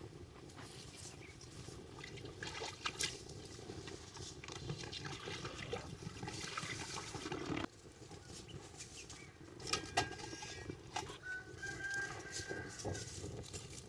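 Domestic chickens clucking in the background, with scattered clicks and knocks. A short held call comes late on.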